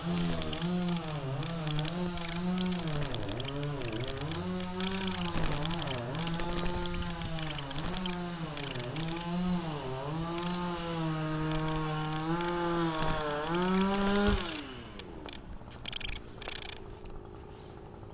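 A small engine running at high speed, its pitch dipping and recovering over and over as if under varying load, then winding down and stopping about fourteen seconds in. Rapid, uneven ticking throughout, like a bicycle's freewheel as the bike is wheeled along.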